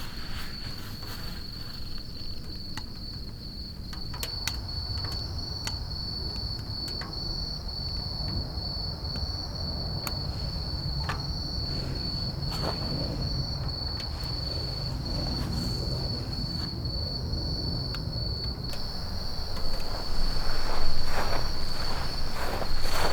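A cricket trilling steadily on one high note, over a low rumble with scattered sharp crackles, typical of wood burning in the stove. Louder irregular knocks and rustling come near the end.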